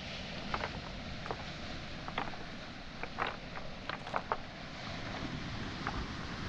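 Footsteps on a pebble beach, the stones knocking and clinking together underfoot in irregular short clicks. Behind them is a steady rush of waves on the shore and wind.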